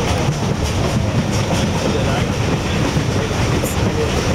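Steady rumble and rattle of a moving train, heard from an open-air passenger car: steel wheels running on the rails.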